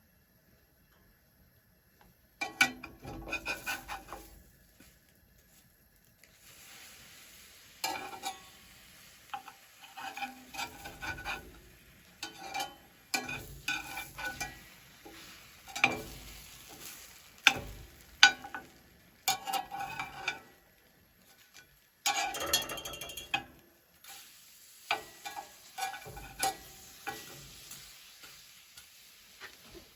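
Food sizzling in a frying pan, with a utensil scraping and clinking against the pan in quick irregular strokes.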